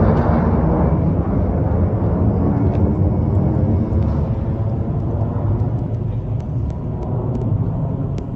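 Airbus A330-300 airliner's engines and airflow as a steady, loud rumble heard inside the passenger cabin, easing slightly after about a second.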